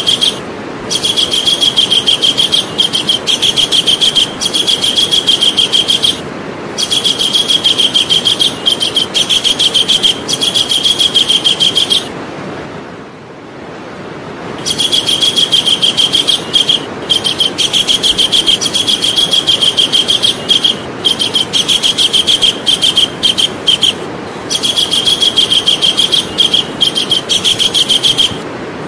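Javan kingfisher calling: high-pitched, rapid trills of repeated notes in runs of a few seconds with short breaks, and a longer pause about halfway through. A steady background hiss runs underneath.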